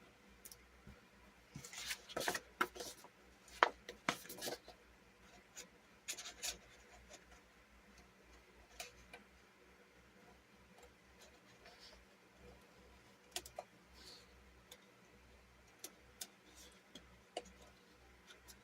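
Small scissors snipping paper, a quick run of snips in the first few seconds, another around six seconds in, then scattered light clicks and paper handling, as a ring hole in a planner page is trimmed out by hand.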